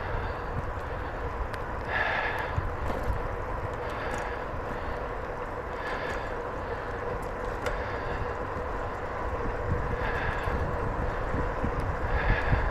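Bicycle riding noise: steady tyre and wind rumble, with a short higher-pitched sound recurring about every two seconds.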